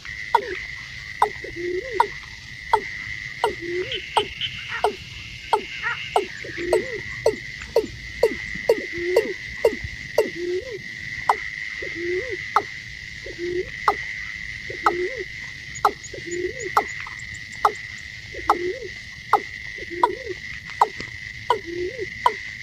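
Watercock calling: a steady series of short, deep, hollow notes, about one and a half a second, over a continuous high thin whine.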